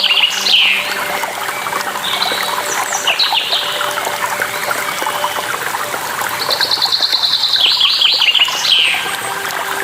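Songbirds singing over steadily running water. A fast trill ending in a few falling notes is heard just at the start and again about two-thirds of the way through, with a shorter phrase in between.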